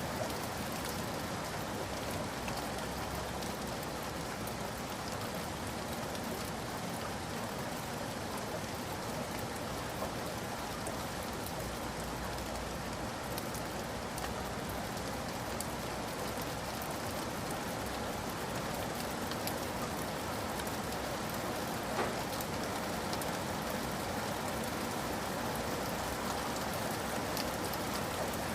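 Steady rainfall, an even hiss with scattered drops pattering on a surface.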